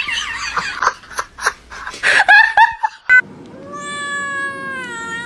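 Cat meowing: a wavering call, a few sharp knocks, and short falling meows, then one long drawn-out meow from about three seconds in.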